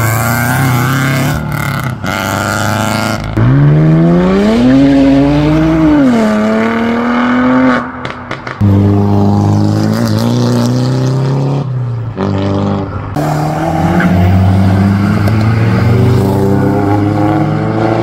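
Cars accelerating hard away and past one after another, engines revving up through the gears. About three seconds in one engine climbs steeply in pitch, drops back and lifts off near eight seconds; another then pulls steadily, with a brief dip in the middle.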